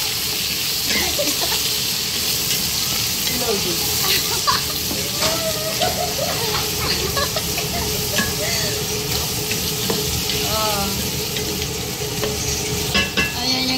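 Chopped tomatoes and onions sizzling in hot oil in an aluminium pot as they are stirred with a wooden spoon.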